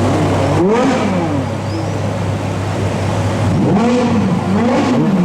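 Ferrari supercar engines idling, then revved in quick throttle blips that rise and fall in pitch: one about half a second in, and a run of several overlapping revs from about three and a half seconds on.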